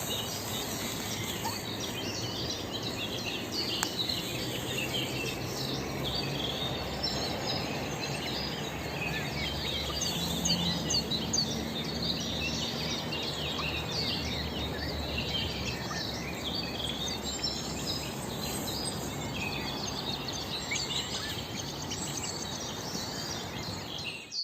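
Many birds chirping and calling in quick, overlapping short notes over a steady background hiss of outdoor noise.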